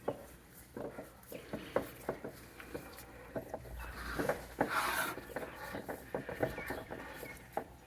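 Irregular light knocks, clicks and rubbing, with a longer scrape or rustle about four to five seconds in.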